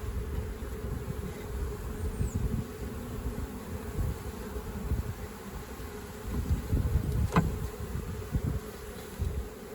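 Swarm of honeybees buzzing steadily around the opened swarm trap and comb, with low handling rumbles and a sharp knock about seven seconds in.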